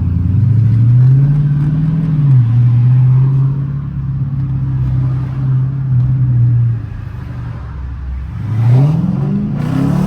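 Dodge Challenger's engine pulling away under acceleration. Its pitch climbs, drops back about two seconds in as it shifts up, holds steady for several seconds, falls away about seven seconds in, then climbs again near the end.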